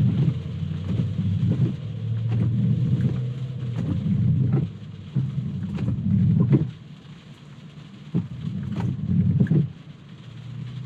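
Rain drumming on a car's roof and windshield, heard from inside the cabin: a heavy low rumble that swells and drops away several times, with scattered sharp taps.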